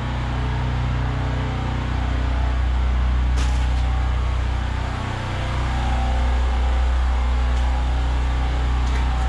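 A steady low machine hum, like an engine running, with a faint click about three and a half seconds in and a couple more near the end.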